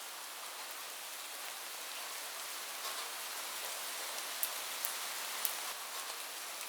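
Steady heavy rain falling on a roof, a continuous hiss with scattered sharper drop ticks.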